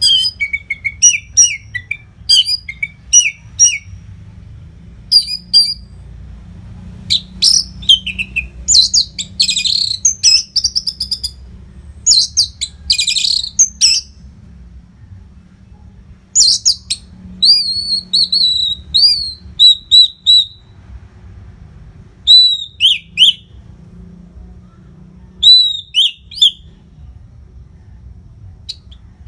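Orange-headed thrush singing in full song: quick phrases of loud whistled notes, slurs and chattering, one after another with short breaks between them.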